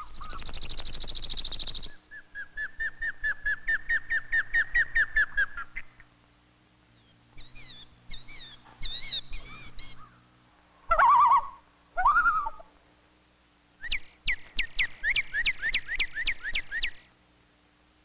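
Several wild bird songs and calls in turn: a high buzzy trill, then a run of rapid repeated notes for about four seconds, some warbled phrases, two loud lower calls about eleven and twelve seconds in, and another rapid series of notes near the end.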